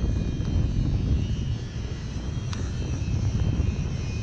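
Wind buffeting the microphone, a steady low rumble, with one faint click about two and a half seconds in.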